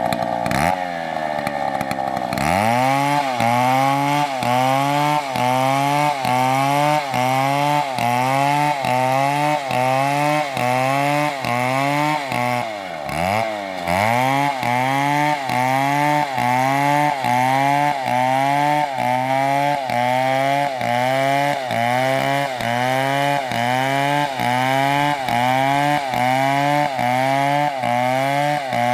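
MS720 two-stroke chainsaw cutting through a big tree trunk. The engine comes up to full revs about two seconds in, then its pitch dips and recovers about one and a half times a second as the chain bites and the bar is rocked in the cut. It bogs down deeper once, about halfway through.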